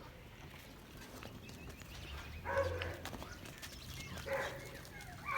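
Two short animal calls about two seconds apart, each about half a second long.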